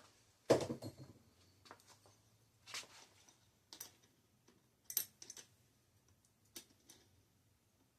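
Tools and bicycle parts being handled during a teardown: a few separate clicks and knocks, the loudest a heavier knock about half a second in, with small clinks around three, four, five and six and a half seconds in.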